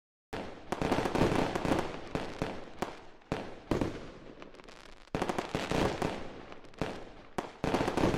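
Fireworks going off: a dense run of sharp bangs and crackling that starts abruptly a moment in and comes in waves, swelling and fading several times.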